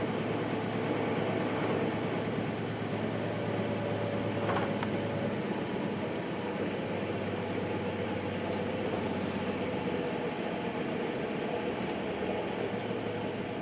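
Nissan Diesel KC-RM211 Space Runner RM mid-size bus, its FE6 diesel engine running steadily under the noise of the cabin, heard from inside the bus. There is a faint click about four and a half seconds in.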